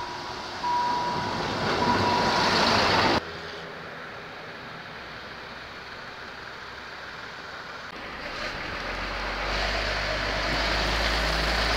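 Railway noise from clips cut together: a passing diesel railcar with a broken high steady tone over it, cut off abruptly about three seconds in, then a quieter stretch of running noise. Near the end a small diesel locomotive passes close, its engine a low hum growing louder.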